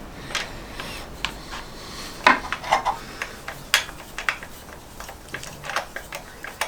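Scattered small metal clinks, taps and rubbing as metal engine fittings and hand tools are handled, with the loudest knocks a couple of seconds in.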